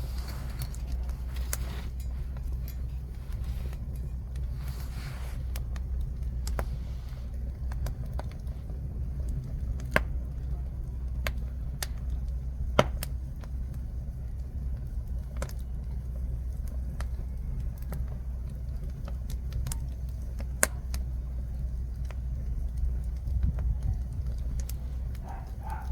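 Jujube-wood fire burning, with sharp crackling snaps every second or so over a steady low rumble; two louder pops come about ten and thirteen seconds in.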